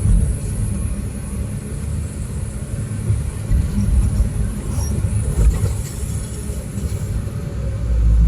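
Heavy diesel machinery running with a steady low rumble.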